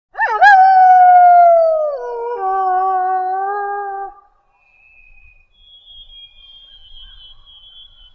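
A canine howl sound effect: one long howl that rises sharply at the start, holds, then drops to a lower pitch about two seconds in and ends around four seconds in. A faint, thin high-pitched tone follows.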